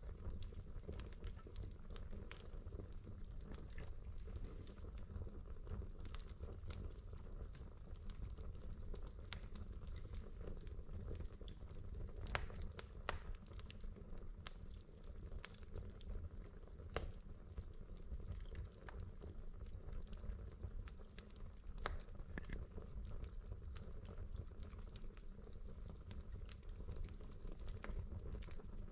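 Burning logs in a fireplace crackling, with irregular sharp pops and snaps over a steady low rumble. A few louder pops stand out about 12, 17 and 22 seconds in.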